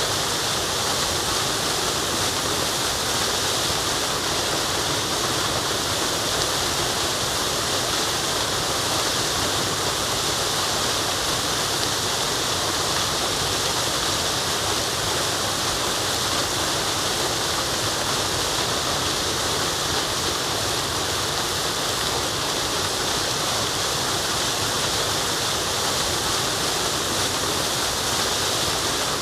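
Forest waterfall rushing, a steady unbroken hiss of falling water with no changes.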